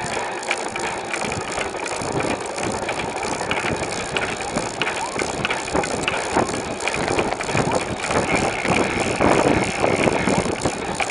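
Bicycle riding along: steady tyre and wind noise with frequent small rattles and clicks from the bike, heard from a camera mounted on it.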